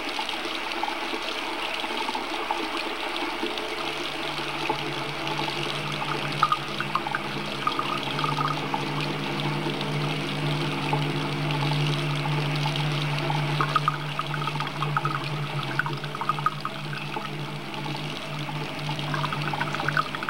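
Tap water running into a bathroom sink as hands are washed under it, with small splashes. A low steady hum joins about four seconds in.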